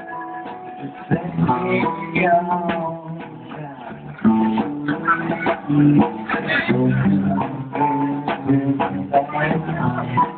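Live band playing guitar-led music, with changing held notes and sharp strikes, heard through a phone's limited-range recording.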